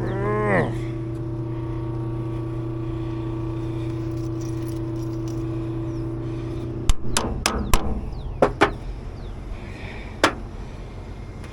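Steady electric hum from a kitchen hood exhaust fan's motor, with its drive belt thrown. The hum cuts off suddenly about seven seconds in, as the power is shut off. Sharp metallic clicks and knocks follow over the next two seconds, with one more knock near the end.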